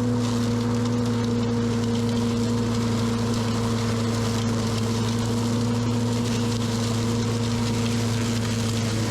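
Small engine running steadily at constant speed, an even hum over a rushing hiss.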